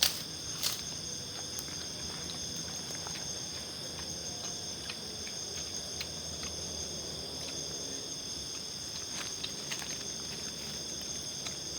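Steady chorus of night insects in the forest, several shrill tones held without a break, with scattered faint clicks and taps over it.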